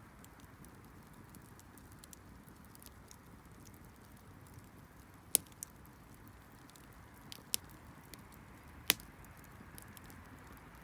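Wood bonfire crackling with small scattered ticks over a steady low hiss, and three loud sharp pops in the second half.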